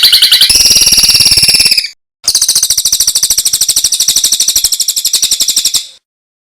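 Songbird trilling loudly in rapid, evenly repeated high notes: a first trill steps up in pitch about half a second in and breaks off near two seconds, then a longer, steady high trill runs until it stops about six seconds in.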